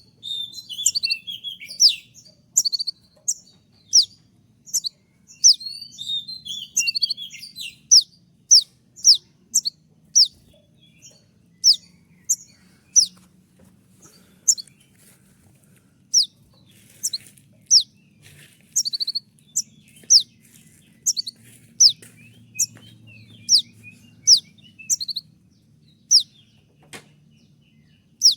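A konin (kolibri ninja) sunbird singing its rapid 'tembakan' song: a steady string of short, sharp notes that sweep downward, about two a second, broken by a few quick twittering runs.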